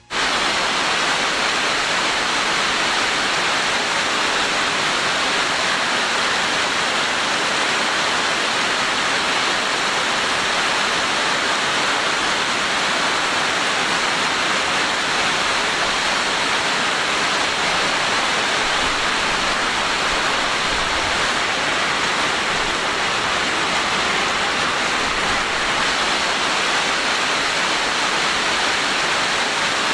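Heavy rain and hail falling in strong wind: a dense, steady rush of noise.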